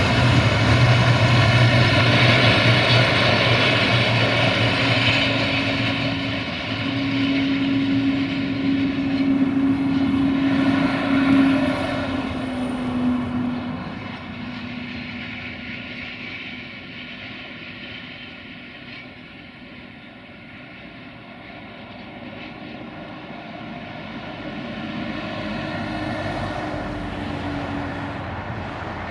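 A freight train of loaded cement hopper wagons rolling past, a dense rumble with a steady droning tone that slides a little lower about halfway as the last wagon goes by, then fades as the train draws away. Near the end another engine-like drone grows louder.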